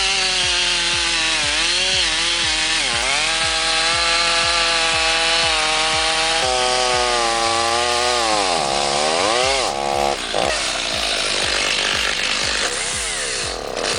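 Chainsaw running under load as it cuts into a tree. The engine pitch wavers, drops sharply about eight seconds in as the saw bogs in the cut, and then climbs back.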